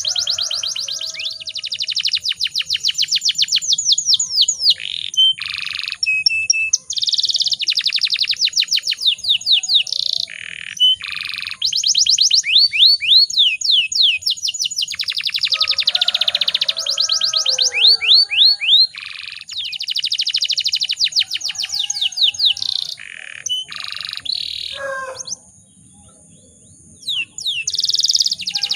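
Domestic canary singing a long, fast song of rapid trills and rolls, with a short pause near the end.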